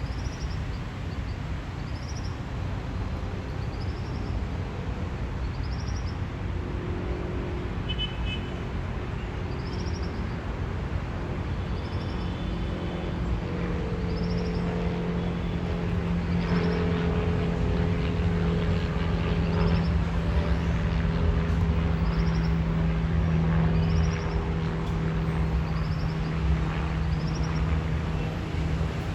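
Steady cabin noise of a Boeing 757-200 in flight: engine drone and rushing air with a low hum, growing a little louder in the second half.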